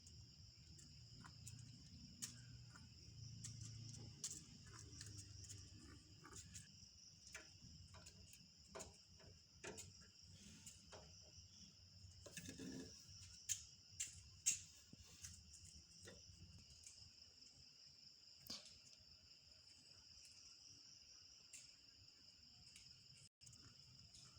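Crickets chirring steadily in a high, continuous drone, faint overall, with scattered soft clicks and taps throughout and two sharper taps about halfway through.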